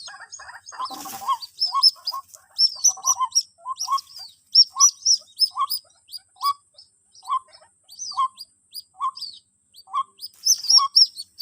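White-breasted waterhen calls: short low notes repeating roughly once a second, overlaid with high, thin arched chirps, with a brief knock or rustle about a second in.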